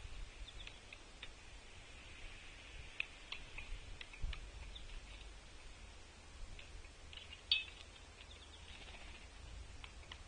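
Scattered short, high chip notes and clicks from small birds at a feeder, over a faint low outdoor rumble; the loudest click comes about seven and a half seconds in.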